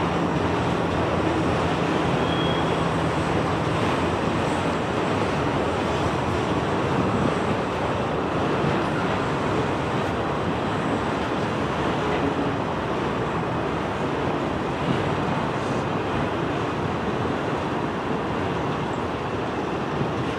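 A train rolling past: a steady rush of wheel-and-rail noise, with a low hum under it for the first few seconds.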